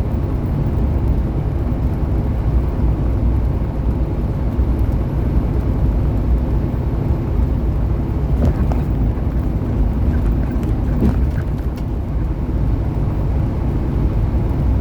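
Steady drone of a semi-truck's engine and road noise heard inside the cab while cruising on the highway, with a few faint ticks about two-thirds of the way through.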